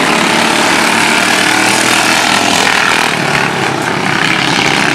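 Engines of several racing lawn mowers running together as a tight pack, a steady, loud mix of overlapping engine notes.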